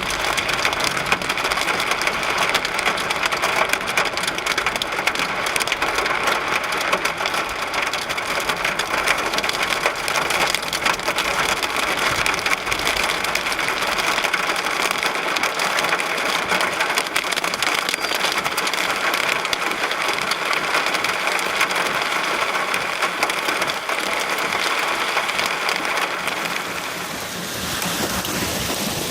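Heavy rain pelting a car's roof and windshield, heard from inside the car as a dense, steady patter of drops during a severe thunderstorm, easing a little near the end.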